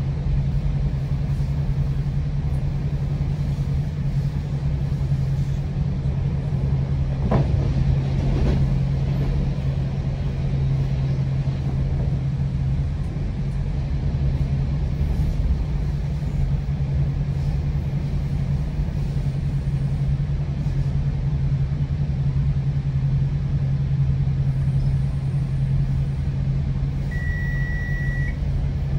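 GO Transit train running steadily, heard from inside a bilevel passenger coach: a constant rumble with a steady low drone. About seven seconds in there is a brief sound that falls in pitch, and near the end a short, single high tone lasts about a second.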